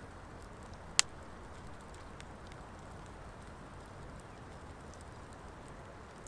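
Campfire of driftwood and dry hardwood burning, with one sharp, loud pop about a second in and a few faint crackles over a low, steady background.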